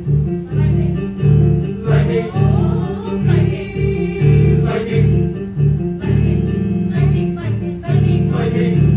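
Live choral music: a teen vocal ensemble singing with instrumental accompaniment, over a steady beat of repeated low notes about twice a second.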